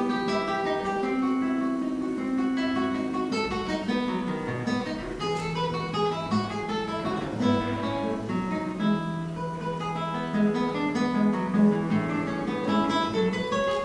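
Acoustic guitar playing solo: a quick flowing run of single notes over held bass notes.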